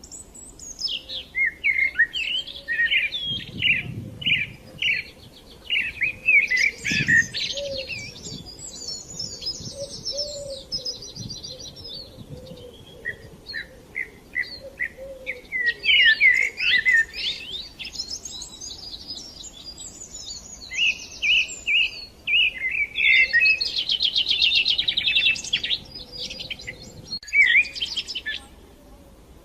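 Songbirds chirping and twittering continuously, with quick runs of rapid trilled notes.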